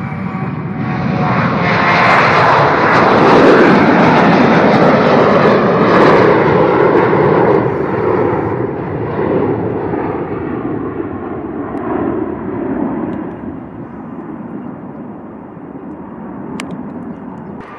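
Jet airliner passing close by. The engine noise builds to a peak a few seconds in, then slowly fades away.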